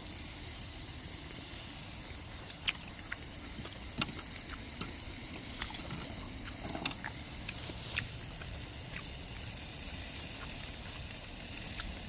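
Whole garlic cloves frying in a pan: a steady sizzle with scattered sharp pops and crackles at irregular intervals.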